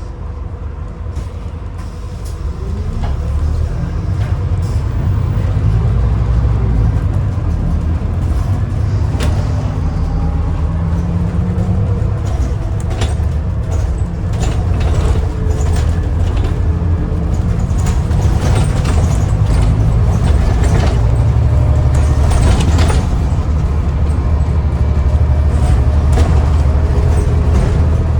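Alexander Dennis Enviro400 MMC double-decker bus on a Scania N250UD chassis under way, heard from inside the cabin. The diesel engine's rumble grows louder a few seconds in as the bus gathers speed, with a rising pitch partway through and frequent rattles and clicks from the bus's fittings.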